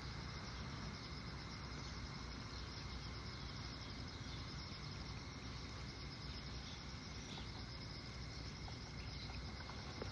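Crickets and other night insects chirring steadily, a thin continuous high trill, over a low steady rumble.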